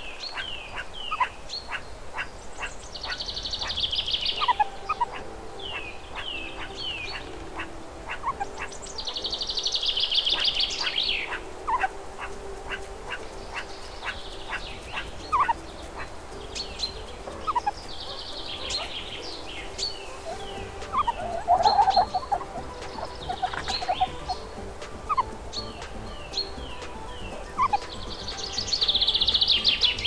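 Birdsong: several birds chirping with many short, falling notes, and a dense, rapid trilling song that comes back several times.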